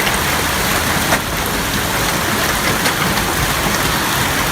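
Hail and heavy rain falling in a dense, steady hiss, with scattered sharper hits and one louder knock about a second in.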